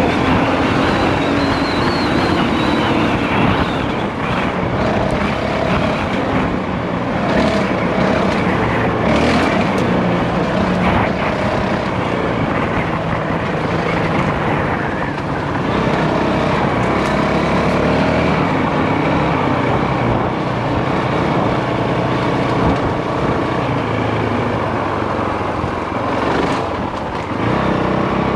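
Single-cylinder dirt bike engine running under load while riding a rough dirt track, its revs rising and falling over a constant rush of noise.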